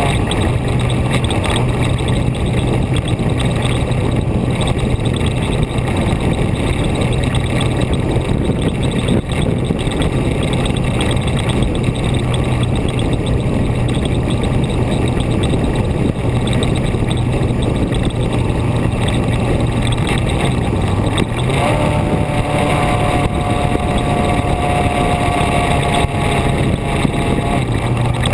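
A road vehicle being driven: a steady low engine drone under loud, constant road and wind noise. About three-quarters of the way through, a higher engine tone comes in and holds.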